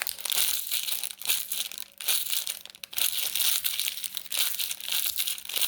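Plastic chocolate-biscuit wrapper being crinkled and scrunched in the hands: a continuous crackling rustle, broken by brief pauses about two and three seconds in.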